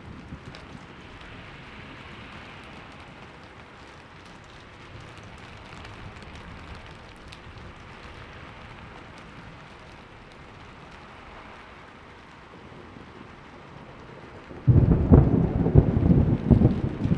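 Steady rainfall, then near the end a sudden loud, rumbling crack of thunder.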